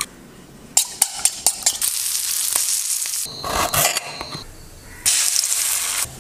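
A quick run of kitchen sounds: a burst of sharp clicks about a second in from utensils working in a bowl and on a board, then food hissing and sizzling in a frying pan, loudest near the end.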